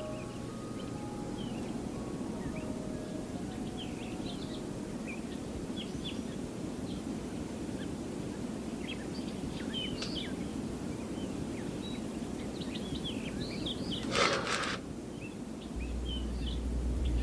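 Small birds chirping sporadically over a steady low background rush. A brief, louder noisy burst about fourteen seconds in, and a low hum comes in near the end.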